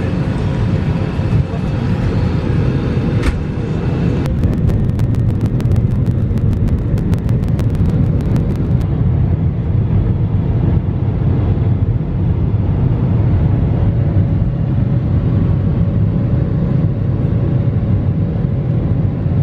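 Steady, loud rumble of aircraft engine and air noise, heard from inside the cabin of a plane in flight.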